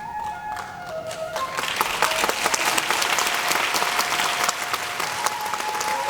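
Audience applauding, swelling in about a second and a half in and holding steady. Underneath, kagura music goes on with thin, held flute notes.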